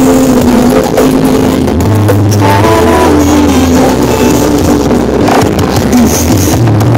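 Loud music with a heavy bass line under a sustained melody, blasted from a large carnival sound-system rig.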